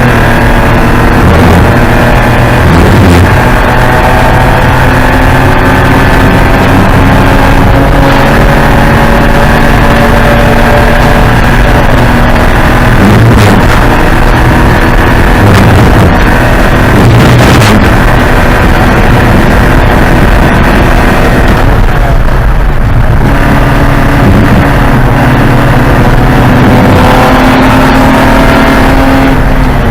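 Porsche 944 Spec race car's four-cylinder engine under racing load, very loud, revs repeatedly climbing and dropping back through gear changes.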